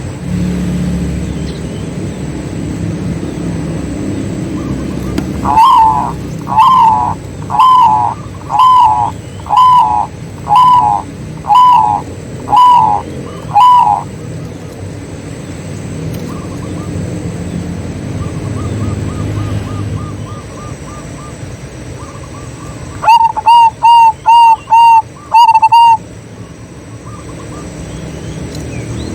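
Zebra doves (perkutut) cooing: a series of nine evenly spaced notes about a second apart, then after a pause a quicker run of six notes near the end. A low rumble runs underneath.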